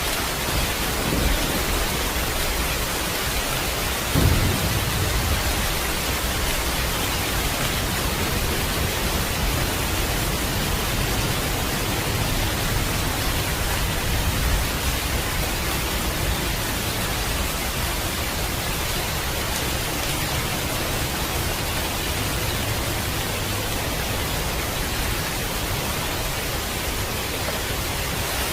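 Steady heavy rain, a dense even hiss, with a low rumble of thunder that swells suddenly about four seconds in and fades over a second or two.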